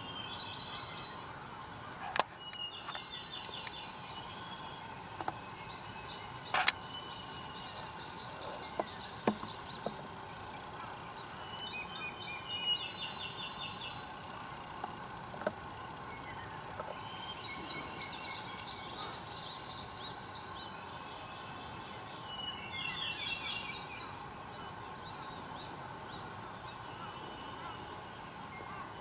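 Wild birds singing: short, fast trills repeat every few seconds, with fainter single high notes in between. A few sharp clicks stand out over a steady faint background hum.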